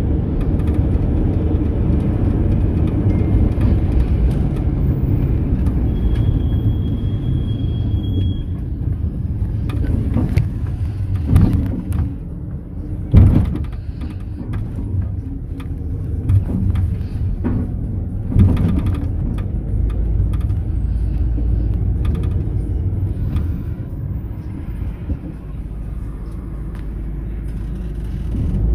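Mercedes-Benz Sprinter minibus on the move, heard from inside: steady engine and road rumble with several loud knocks and rattles near the middle, the loudest about thirteen seconds in. A thin high whine sounds briefly between about six and eight seconds in.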